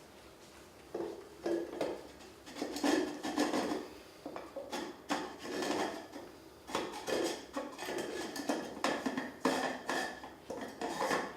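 Glass dome of a Casablanca ceiling fan's down light being screwed back onto its metal base: uneven bursts of glass scraping and clinking on the threads, with a faint ring, starting about a second in.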